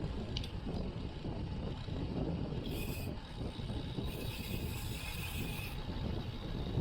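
Wind buffeting the microphone and road-bike tyre rumble while riding, with two stretches of a fast, fine whirring tick from the rear freewheel coasting: a short one about two and a half seconds in and a longer one from about four seconds to near the end.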